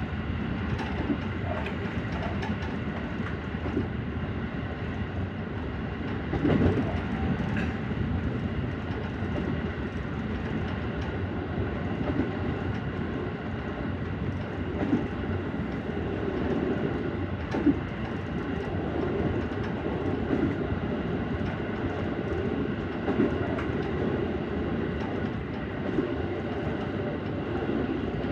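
JR Central 313 series electric train running along the line: a steady rumble of wheels on rail with a continuous motor hum, broken by scattered sharp clicks and knocks from the track.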